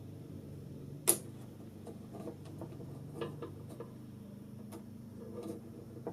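Light clicks and taps of small parts being handled, with one sharper click about a second in, over a faint steady hum.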